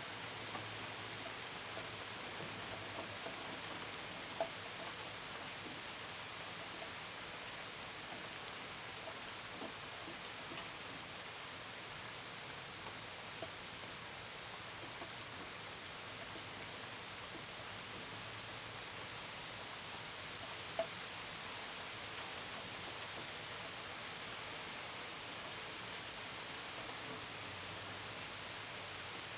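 Steady gentle rain hissing, with pitter-patter and a few sharper single drip taps, the strongest about four seconds and twenty-one seconds in. Crickets chirp behind it in a faint high trill that comes and goes.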